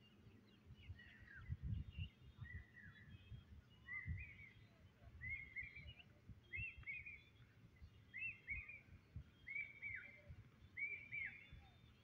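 A bird repeating a short phrase of quick slurred whistled notes about eight times, a little more than once a second, faint, over a low uneven rumble.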